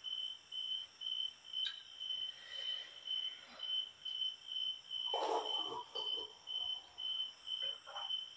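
A cricket chirping steadily at night: one high note repeated evenly, a little more than two chirps a second.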